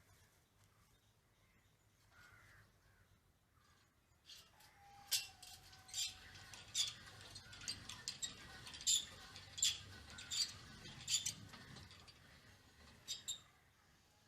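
Crows cawing: a run of short, harsh caws about one every 0.7 s, after a few seconds of near quiet.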